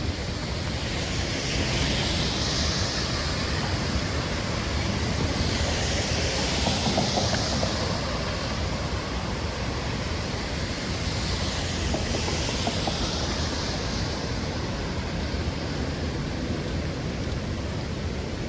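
Heavy rain on a city street, with the tyre hiss of vehicles passing on the wet road that swells and fades several times.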